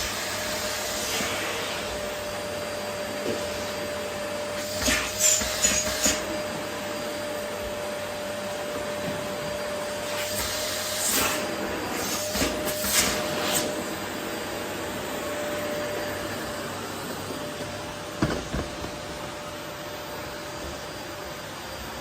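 Vacuum cleaner running steadily with a constant motor whine, with a few short clusters of louder bursts, typical of rose petals being sucked up off a wooden floor.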